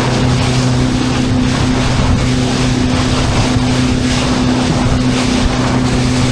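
Small fishing boat's engine running steadily under way, a constant low hum, with heavy wind and water rushing past.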